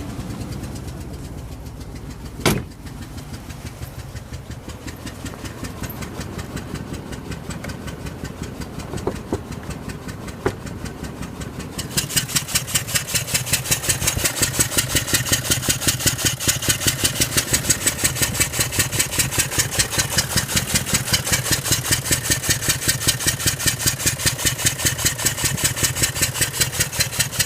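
Range Rover L322's 4.4 V8 running at idle. One sharp knock comes about two and a half seconds in. About twelve seconds in, a loud, fast, regular tapping sets in over the engine and keeps going. The owner is asking about this noise on an engine that is misfiring and logging a P1301 multiple-misfire code.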